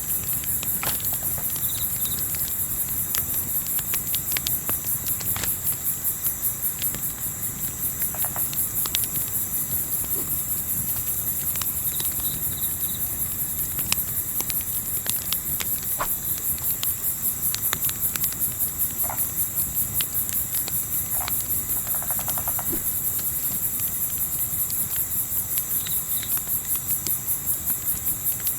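High-pitched chorus of crickets pulsing rapidly and evenly, over a low steady rumble. Small crackles from a campfire are scattered through it.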